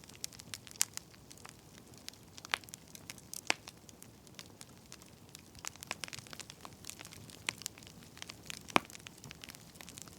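Burning firewood crackling: a low hiss with many irregular sharp pops, a few louder snaps among them, the loudest near nine seconds in.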